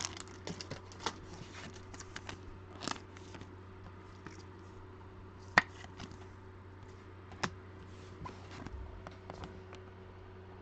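Trading cards being handled and flipped through: faint sliding and rustling with scattered sharp taps, the sharpest a little over five seconds in and again at about seven and a half seconds, over a faint steady hum.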